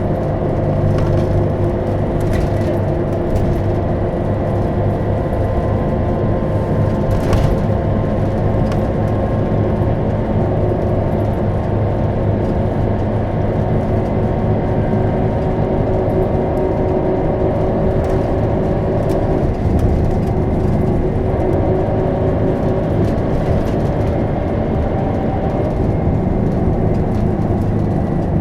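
Scania DC9 five-cylinder turbodiesel of a Scania K270UB bus running steadily under way, heard from inside the bus, with a few brief rattles.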